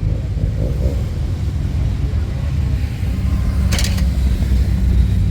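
Motorcycle engine running steadily under way, a continuous low rumble, with a brief sharp noise just under four seconds in.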